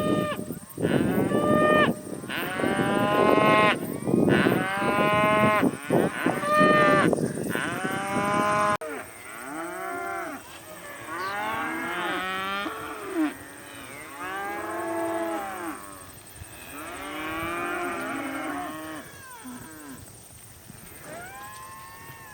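A herd of cattle mooing, many long calls overlapping one after another. About nine seconds in the level drops suddenly and the calls go on fainter.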